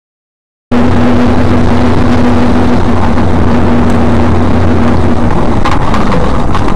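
Loud road and wind noise inside a moving car picked up by a dashcam, with a steady low engine drone, cutting in abruptly under a second in; a few clicks and knocks come near the end.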